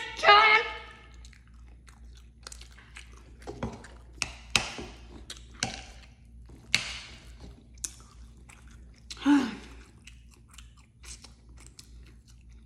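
Close-up mouth sounds of someone chewing a mouthful of soft food: wet smacks and clicks, scattered and uneven.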